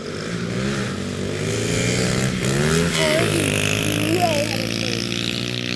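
Dirt bikes with small 110cc engines revving hard close by. The engine pitch climbs and then falls sharply about three seconds in, as a bike races past or shifts gear.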